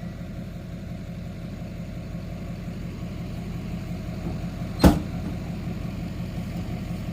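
Dually pickup truck's engine idling steadily, with a single sharp knock about five seconds in.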